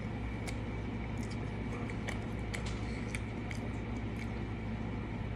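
A person chewing a cheeseburger up close: wet mouth clicks and smacks, scattered irregularly, over a steady low hum.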